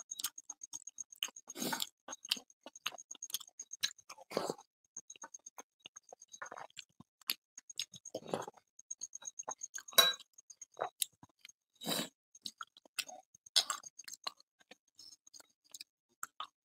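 Close-miked chewing and wet mouth sounds of a person eating luchi with curry by hand, in short bursts every second or two. A faint, rapid, high ticking runs steadily underneath.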